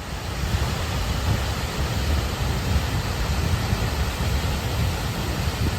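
Wind buffeting the microphone, a heavy uneven low rumble, over a steady rushing hiss.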